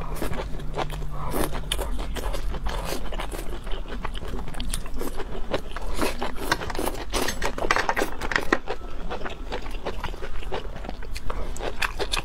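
Close-up eating of stir-fried water spinach with sliced chilies: dense, irregular crunching and chewing of the crisp stalks.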